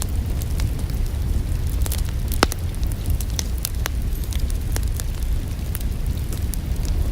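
Wood fire crackling in a fireplace: irregular sharp pops and snaps over a steady low rumble, with one louder pop about two and a half seconds in.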